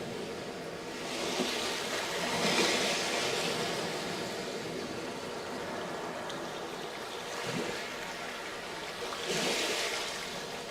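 Sea waves breaking on a sandy beach, a steady wash with two larger waves surging up, one about two seconds in and another near the end.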